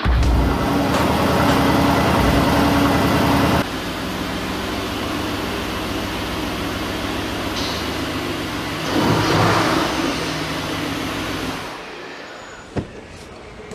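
Mercedes-AMG GT R's 4.0-litre V8 engine revving hard for the first few seconds, then running lower and steadier, with another brief rev about nine seconds in before it dies away near the end. A single sharp click sounds shortly before the end.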